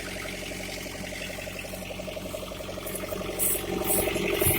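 Fiatagri 680 tractor's diesel engine idling steadily, with a few short high-pitched bursts over it in the last second or so.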